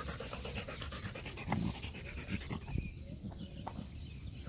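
Rottweiler panting in quick, even breaths, winded from chasing a ball.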